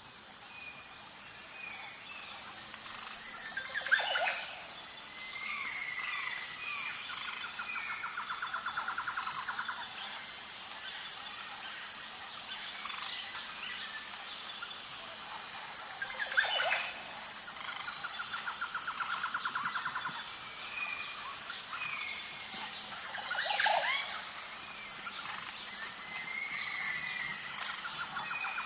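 Birds chirping and calling over a steady high-pitched insect drone. Three loud, sharp calls stand out, about 4, 16 and 23 seconds in, and a rapid pulsing trill comes back roughly every ten seconds.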